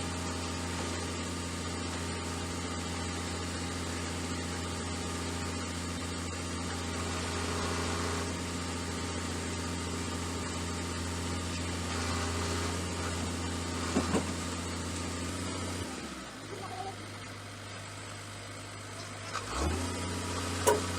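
Scania truck's diesel engine running steadily, with a sharp click about two-thirds of the way in. Its speed drops about three-quarters of the way through, then rises again shortly before the end.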